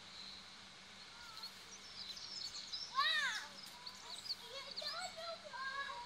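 Small birds chirping and twittering. A child's high-pitched voice calls out once, loudly, about halfway through, and makes more short voice sounds near the end.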